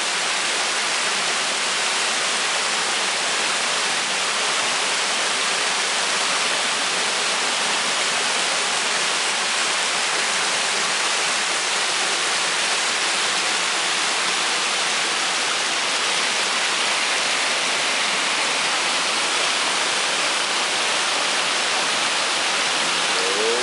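Creek waterfall, water pouring steadily with an even, unbroken rush.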